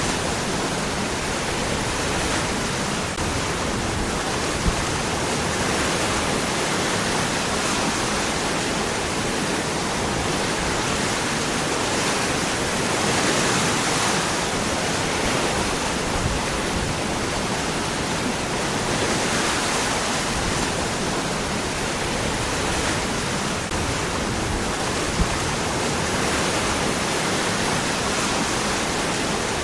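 Waterfall pouring over rocks: a steady, even rush of falling water with slight swells, and two faint brief ticks, one about five seconds in and one near the end.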